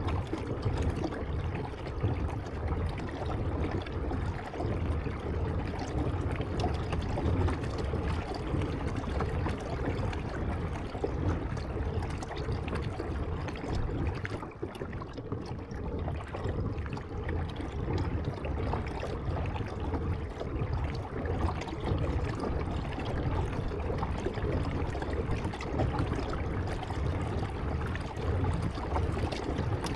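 Water trickling and lapping around a kayak on the move, with a steady low rumble underneath.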